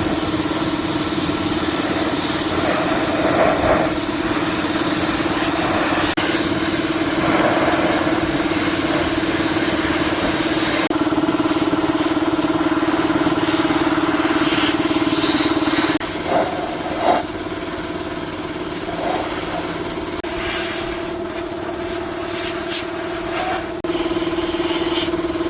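A small motor running steadily at one pitch with a hiss over it, changing abruptly every few seconds, with a few short knocks after the middle.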